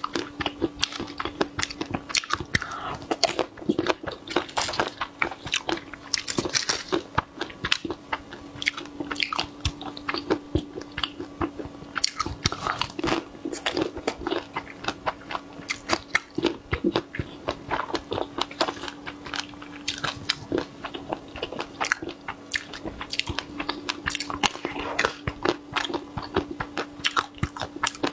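Close-up biting and chewing of chocolate-coated strawberries, the hard shells cracking in many quick, crisp crunches. A steady low hum runs underneath.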